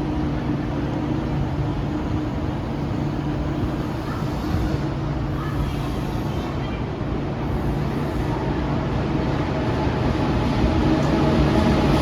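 KTX-Cheongryong high-speed train running: a steady rumble with a low hum, growing a little louder near the end.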